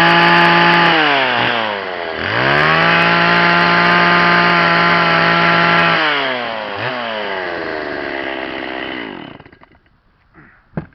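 Two-stroke chainsaw carving wood. It runs at high revs, drops to idle about a second in, revs up again, eases off with a short blip around six seconds, then dies away near the end. A single sharp knock follows.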